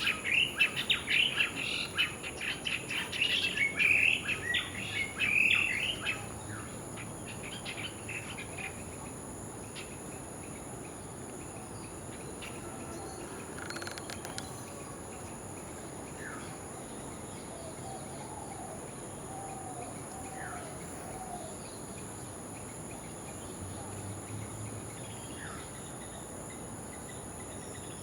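A flock of birds chirping in a loud, rapid chatter for about the first six seconds, then thinning to a few scattered calls and a short warble. Under it runs a steady, high insect drone.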